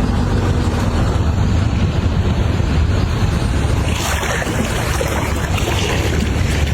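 A vehicle pushing through deep floodwater: a steady low rumble with rushing, splashing water. A louder surge of splashing comes about four seconds in.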